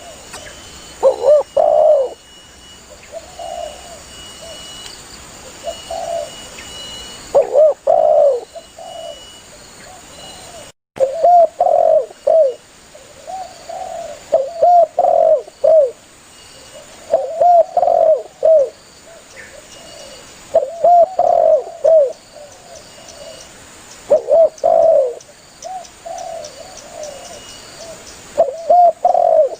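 Spotted dove (tekukur) cooing over and over, in short phrases of several low rolling coos repeated every few seconds. The sound drops out briefly about eleven seconds in.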